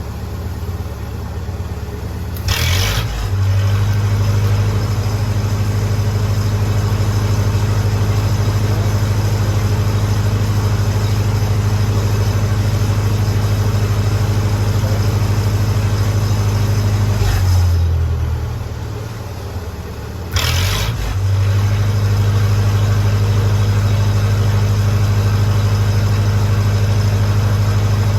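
Lincoln SA-200 engine-driven welder running steadily. Its engine and generator hum grows deeper and louder about three seconds in and again about twenty seconds in, each time after a short sharp crackle, and eases for a few seconds in between. This fits the machine taking on load as the TIG arc is struck and dropping off when the arc is broken.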